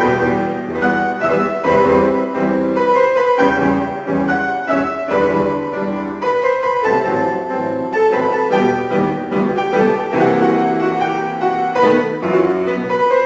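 A piano trio playing a short instrumental piece, the piano most prominent, with continuous chords and melody at a steady level.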